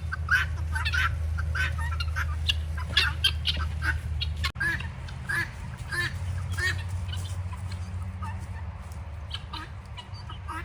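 A flock of guinea fowl calling, with many short, harsh calls in quick succession that grow sparser in the second half, over a steady low rumble.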